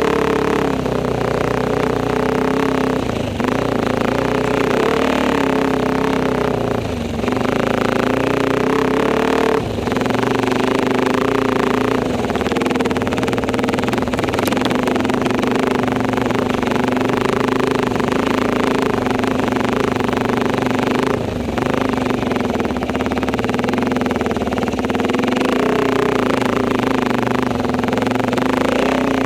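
Enduro motorcycle engine pulling under load, its pitch rising and falling with the throttle, with several brief drops where the throttle closes or the gear changes.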